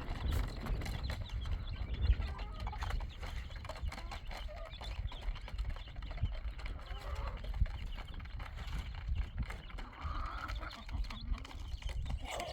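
Farm animals moving about, with scattered hoof steps, over a constant low rumble.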